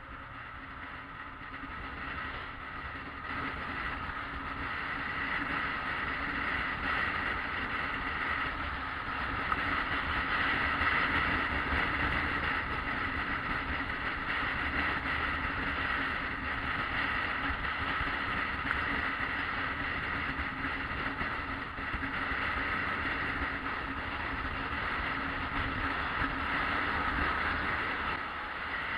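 Yamaha XJ600S Diversion motorcycle running steadily on the move, its engine drone mixed with road and wind noise, getting louder over the first ten seconds and then holding level.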